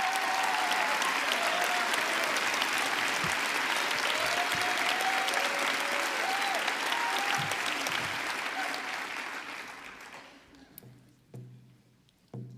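Audience applauding, with a few voices calling out over the clapping; the applause dies away about ten seconds in.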